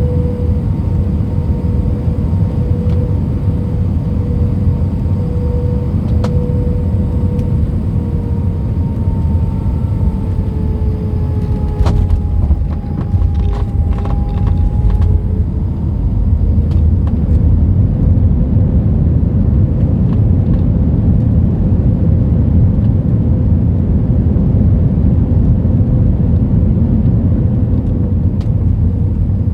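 Airliner cabin noise: a steady heavy rumble from the jet engines and airflow, with a held engine tone that sags in pitch about a third of the way in and settles again, a few knocks in the middle, and the rumble growing a little louder after that.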